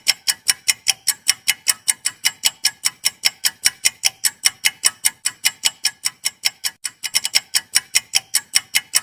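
Fast clock-ticking sound effect, about five sharp ticks a second, with a brief stumble of irregular ticks about seven seconds in: a quiz countdown timer running.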